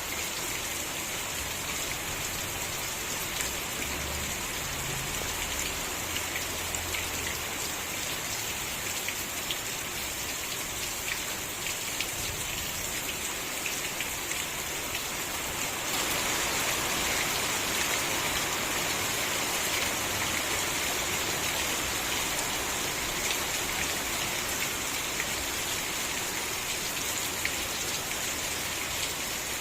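Steady rain with scattered drops ticking on a surface, growing slightly heavier about halfway through.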